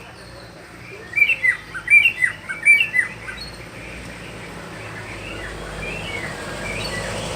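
Pet songbird calling: a quick run of loud, sharp chirps, each dropping in pitch, between about one and three seconds in, followed by fainter chirps.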